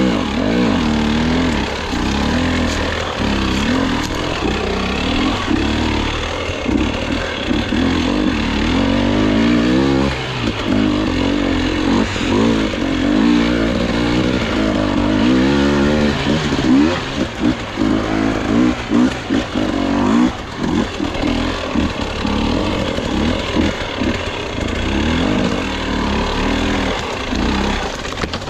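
Dirt bike engine under hard, constantly changing throttle on a steep technical enduro section, revving up and down over and over. In the second half the throttle is cut and snapped open again in quick stabs.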